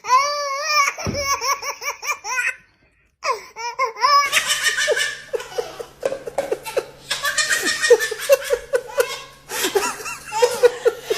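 A baby laughing: rapid high-pitched bursts of belly laughter, breaking off briefly about three seconds in, then a longer run of laughter over a low steady hum.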